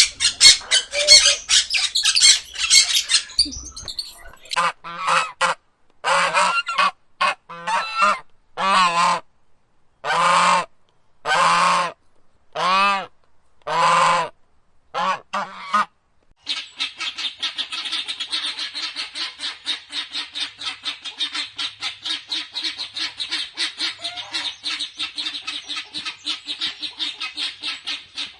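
A run of animal calls: dense squawking at first, then about ten separate honking calls, several close to a second long, and from about the middle on a long, fast, steady chatter.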